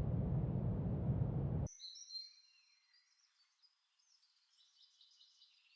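Loud, steady low rumbling noise that cuts off suddenly under two seconds in, followed by faint, high bird chirps.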